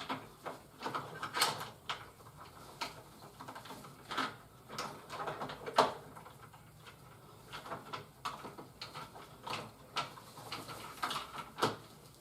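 Irregular clicks, taps and rustles of plastic toy parts and packaging being handled and unpacked, with a few sharper clicks scattered through.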